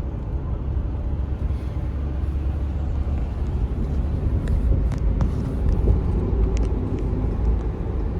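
Steady low rumble of engine and road noise inside the cab of a 2014 Ram 3500 dually pickup on the move, with a few faint clicks between about four and seven seconds in.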